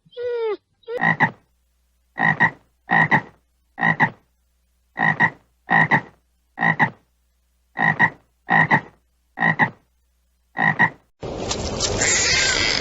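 A frog croaking: about a dozen short croaks in uneven runs of two or three. A falling call ends just at the start, and a harsh, noisy sound cuts in near the end.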